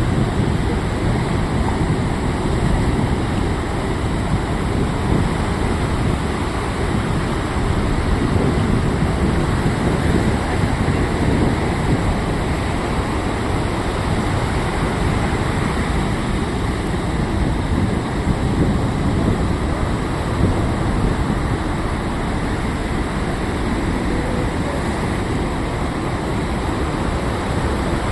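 Rough sea surf: a steady, unbroken rush of breaking waves with a heavy low rumble.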